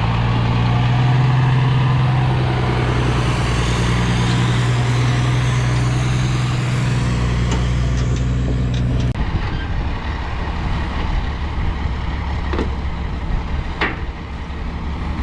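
Heavy equipment's diesel engine running at a steady speed; its engine note drops out abruptly about nine seconds in, leaving a lower rumble with a few sharp clicks.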